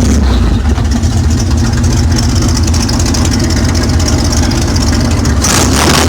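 Pickup truck's inline-six engine running steadily at low revs through a loud, deep-sounding exhaust.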